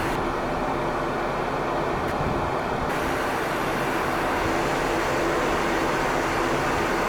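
Jet airliner engines running steadily, an even rushing noise with a low hum held throughout.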